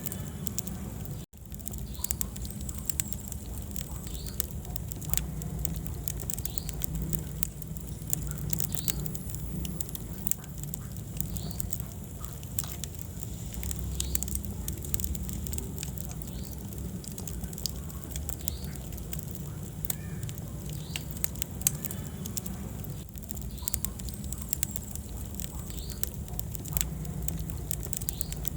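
Wood fire burning in a fireplace: irregular sharp crackles and pops over a steady low rumble of the flames. The sound cuts out for an instant about a second in.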